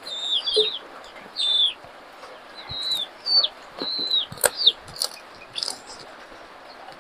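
A bird chirping over and over, short high calls that each bend downward at the end, stopping about five seconds in. A few sharp clicks come among the calls.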